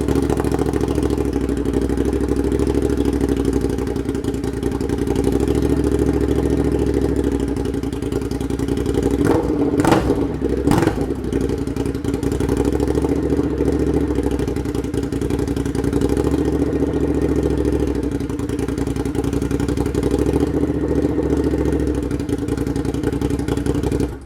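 Ducati Monster's L-twin engine idling loudly with the slip-on muffler removed, so it runs on the open exhaust pipe. The idle is steady, with two short louder bursts about ten seconds in.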